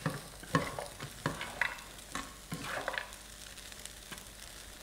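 Fried rice with cashew nuts and pineapple being stirred in a hot pan: a spatula scrapes and knocks against the pan about six times in the first three seconds, over a faint sizzle that then carries on alone.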